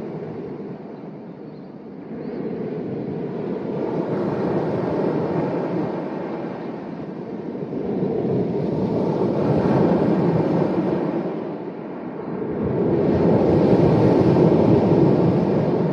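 Sea waves surging in and washing back on the shore, the sound swelling and falling away roughly every five seconds.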